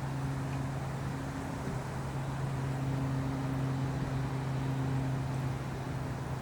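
A motor running steadily, a low even hum over outdoor background noise.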